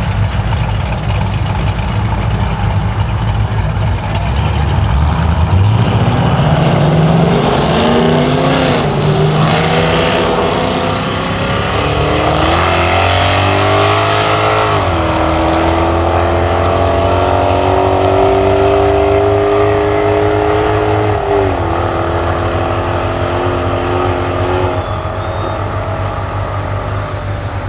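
High-performance car engine accelerating hard under full throttle through the gears in a drag race. Its pitch climbs, drops abruptly at each of three upshifts, then climbs again, and the engine note ends near the end.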